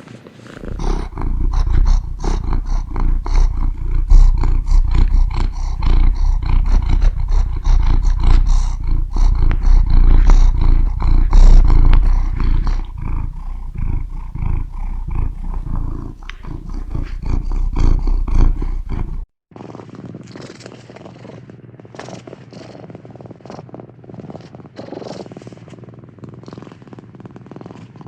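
Cat purring close to the microphone: a loud, deep, fast-pulsing rumble. About two-thirds of the way through it cuts off abruptly and carries on as a quieter, thinner purr.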